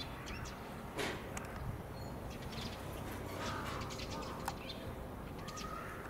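Wild birds chirping and calling outdoors in scattered short notes, a few of them gliding calls, over a steady low background rumble.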